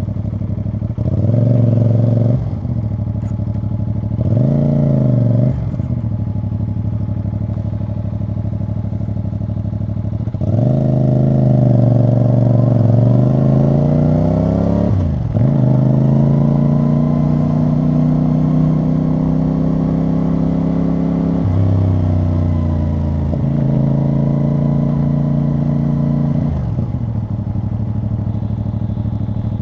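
CFMoto CL-C 450 parallel-twin motorcycle engine and exhaust on the move, with two short bursts of throttle early on, then a longer pull with rising pitch from about ten seconds in, a sharp dip as it shifts gear, and steady running before it eases off near the end.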